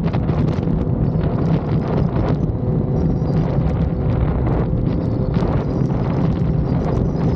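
Yamaha XSR900's inline three-cylinder engine running steadily under way, with wind buffeting the microphone.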